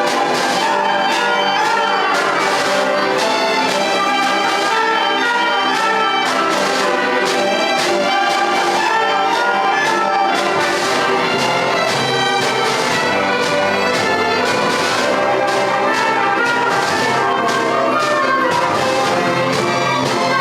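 School concert band playing a piece, with brass (trumpets and trombones) prominent over the ensemble.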